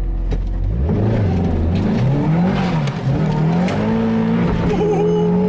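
Turbocharged Pontiac Solstice engine revving hard under acceleration, about a second in, its pitch climbing and dropping several times as the car is driven hard.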